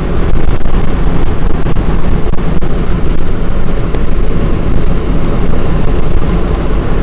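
Car driving along a road: steady road and wind noise, loud and heaviest in the low end.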